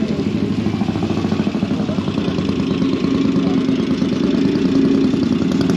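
Motorcycle engine running steadily at low revs, a fast even firing pulse, getting slightly louder about halfway through.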